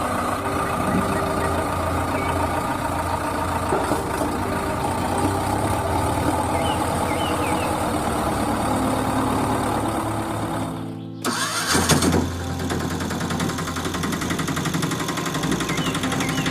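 A small engine running steadily. It breaks off abruptly about eleven seconds in, then runs on.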